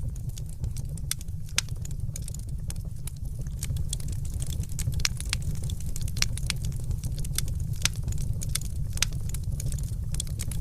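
Crackling wood fire: frequent irregular sharp pops and snaps over a steady low rumble.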